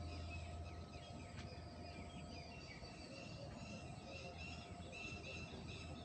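Birds chirping and twittering in short repeated calls over a faint low hum that weakens about a second in.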